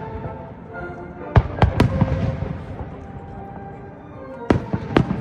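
Aerial firework shells bursting with sharp bangs, three in quick succession about a second and a half in and two more near the end, over music playing for a music-synchronised fireworks show.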